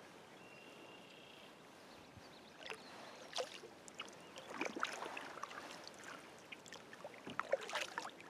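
Scattered light knocks and water sloshing around a kayak as it rides at anchor, the knocks coming in clusters near the middle and again near the end.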